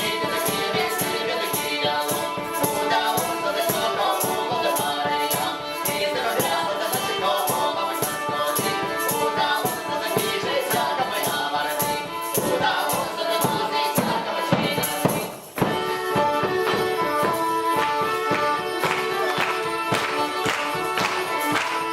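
Folk ensemble playing a traditional instrumental tune over an even rattling percussion beat. The music breaks off briefly about two-thirds of the way through, then starts again.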